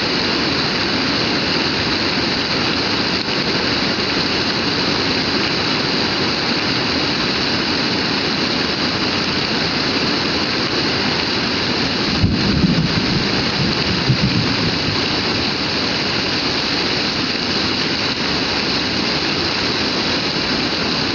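Heavy rain pouring steadily in a dense, even hiss. About twelve seconds in, a low rumble swells under it for about two seconds and fades.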